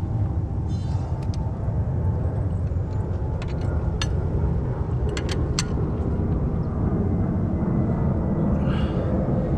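A 2003 Acura TL's 3.2-litre V6 engine idling with a steady low rumble. There are a few sharp clicks of tools or fittings from about four seconds in.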